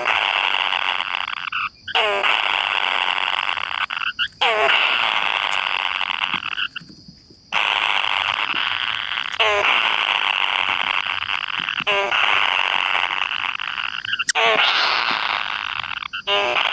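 Kingfisher giving harsh, raspy begging calls while being fed, in long runs that break off briefly a few times, with short strings of falling notes at the start of each run.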